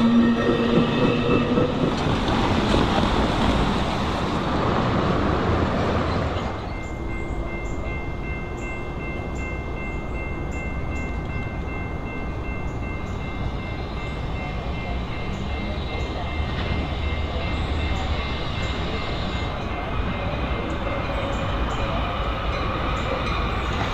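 A train passing close by on the rails: loud rolling rumble for about the first six seconds, then it drops suddenly to a quieter, steady rolling sound with faint light clicks and a faint high steady tone to the end.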